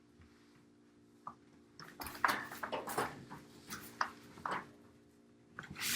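Quiet at first. About two seconds in, a run of sharp clattering knocks and rustles of hard objects being handled starts, and more come near the end. A faint steady hum runs underneath.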